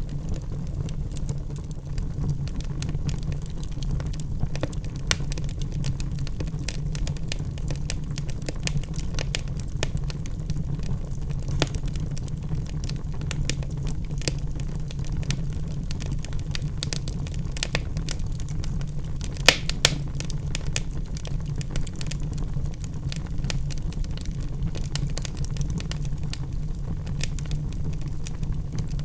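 Wood logs burning in a fireplace: a steady low rumble of flame with frequent small crackles and pops, and two louder pops close together about twenty seconds in.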